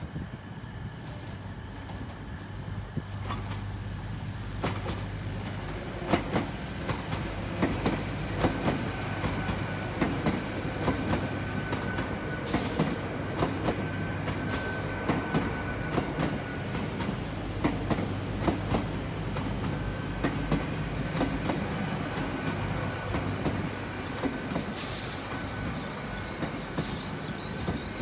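A pair of GWR Class 802 IET bi-mode trains running along the platform under diesel power, wheels clicking over rail joints and points, over a steady low hum and whine. Several brief high-pitched wheel or brake squeals come midway and near the end.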